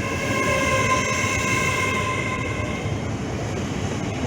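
LNER Class 801 Azuma electric train moving at the platform: a steady high whine made of several tones over a low rumble. The whine fades out about three seconds in.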